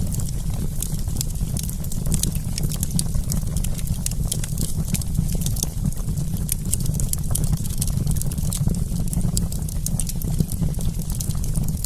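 Wood campfire crackling: many irregular sharp pops and snaps over a steady low rumble of the burning fire.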